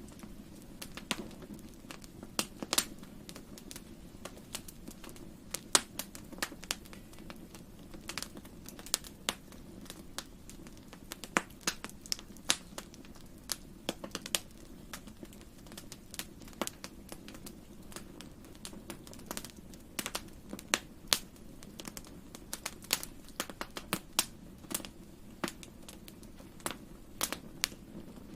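Wood fire crackling in a fireplace: irregular sharp pops and snaps, sometimes several in quick succession, over a low steady hum.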